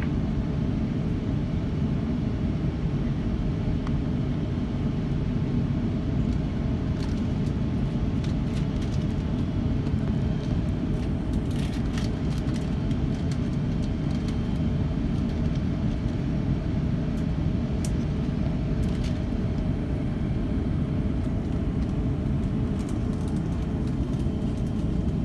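Steady low rumble inside the cabin of an Airbus A350-900 on the ground with its engines running, with a faint steady hum and a few light ticks.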